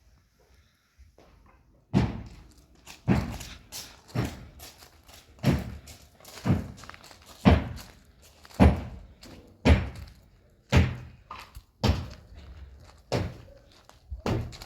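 Heavy hammer blows struck steadily about once a second, a dozen or so in all, each a sharp thunk with a short ring in the room; they begin about two seconds in.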